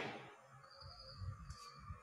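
A caged songbird giving a thin, steady high whistled note, after a sharp sound that fades at the start, with a low rumble in the second half.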